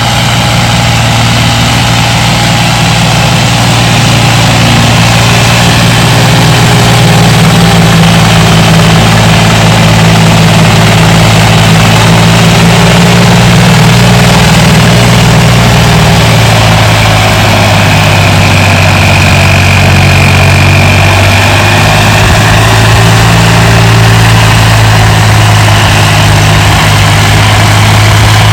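Turbocharged tractor diesel engine running steadily and loud, its note shifting slightly about halfway; a faint high whine comes in for a few seconds past the middle.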